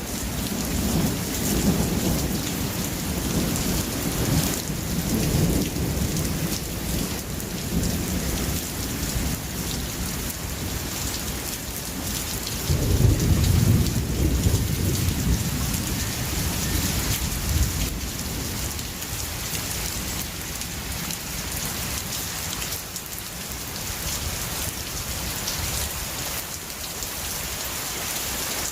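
Steady heavy rain hissing on surfaces, with thunder rumbling low underneath: rolling rumbles in the first few seconds and a louder roll about halfway through, after which the thunder dies away and the rain carries on alone.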